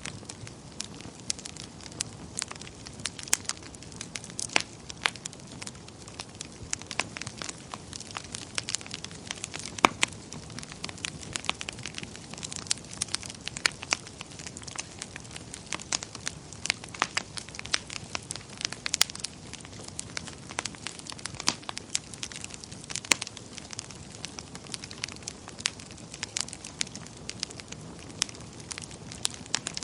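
Wood fire burning in a fireplace: dense, irregular crackles and sharp pops over a low, steady rumble of the flames.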